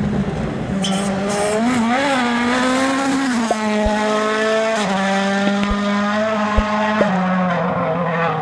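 Rally car engine held at high revs, its pitch wavering and then shifting in steps a few times as it changes gear, with a few sharp clicks.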